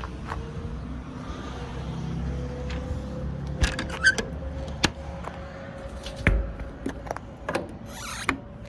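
Several sharp knocks and clicks, spaced irregularly in the second half, over a steady low rumble, with a short scrape near the end.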